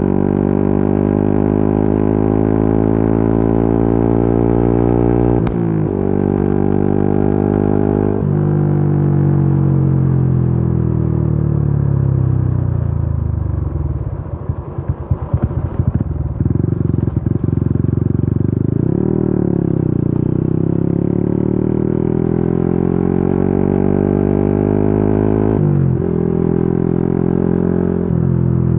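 Yamaha Y15ZR 150cc single-cylinder motorcycle engine heard from the rider's seat, pulling through the gears. The revs climb and drop sharply at two quick upshifts early on, then fall away as the bike slows and run choppy and uneven at low revs. The revs climb again and snap down at two more quick upshifts near the end, the quick shifts of the fitted quickshifter.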